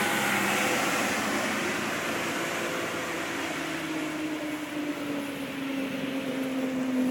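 An engine droning steadily, its pitch falling slowly as it passes, over a constant rushing background noise.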